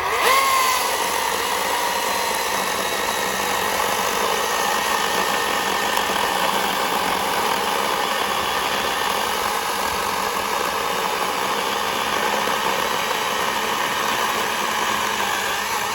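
Chainsaw running under load, cutting through a large log steadily, starting suddenly and holding an even pitch and level.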